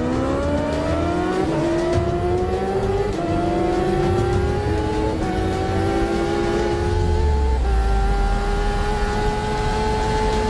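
Big-displacement motorcycle engine accelerating hard through the gears, its pitch climbing and dropping back slightly at each of about four gear changes, then holding high and nearly steady.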